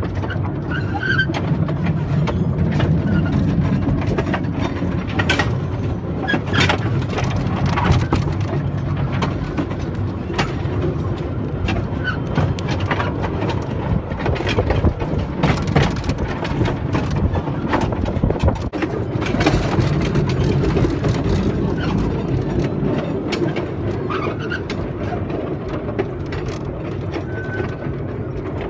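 Small passenger train running on its track: a steady engine hum under continual clanking and clattering of the cars, with a few brief wheel squeals.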